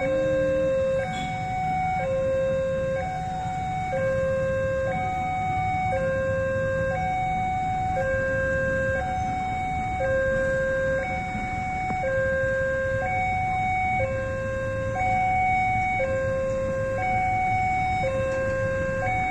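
Railway level crossing warning alarm sounding, an electronic two-tone signal alternating steadily between a low and a high tone, each held about a second, warning that a train is approaching.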